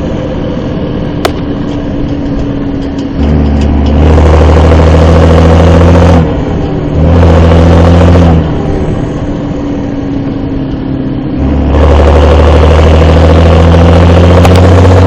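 Fendt 515C tractor's turbo diesel engine idling and revved up three times, each rev held for one to three seconds before dropping back.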